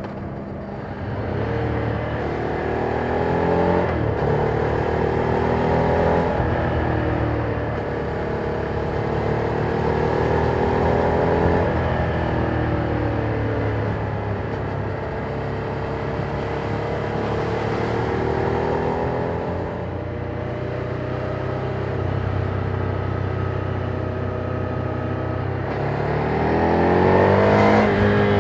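Ducati Monster 797's air-cooled V-twin engine, through its stock exhaust, under way on the road: the engine note climbs and falls back again and again as the rider accelerates and eases off, with a stronger climb near the end.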